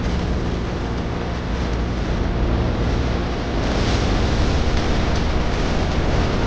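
Steady rushing wind over the microphone with a low hum beneath it, as from an RC model aeroplane in flight. The noise grows brighter from a little past halfway.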